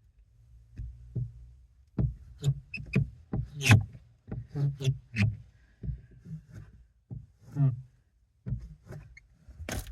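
A scraper rubbed and pressed over stickers on a car window to push out air bubbles: an irregular series of scrapes and knocks.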